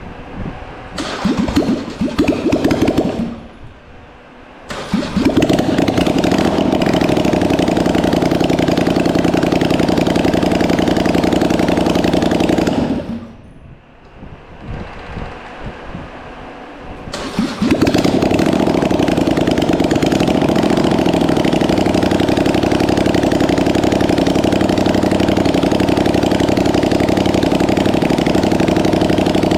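Polaris Sportsman 850 quad's parallel-twin engine being cranked and catching, running steadily for about eight seconds, then cutting out about 13 seconds in. Cranked again, it catches a few seconds later and runs on steadily: a first start after years of sitting.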